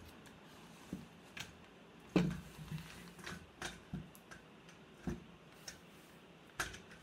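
Scattered, irregular clicks and knocks, about eight of them, over a faint steady hiss, the loudest a little over two seconds in.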